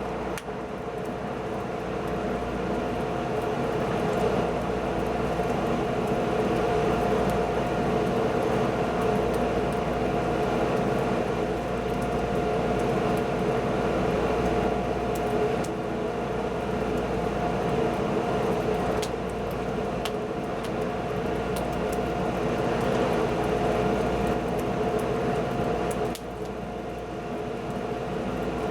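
Wood fire burning with occasional sharp crackles and pops, over a steady droning hum.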